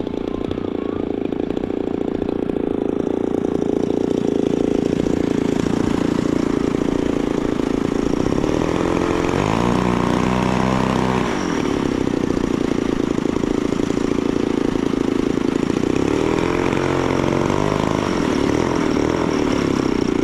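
Gas engine of a large RC model airplane running steadily. About halfway through, its pitch swings down and back up, and it wavers again near the end.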